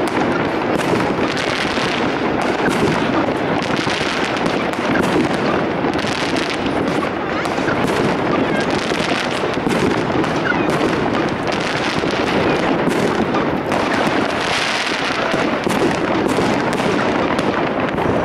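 Many fireworks and firecrackers going off at once: a dense, unbroken barrage of bangs and crackling.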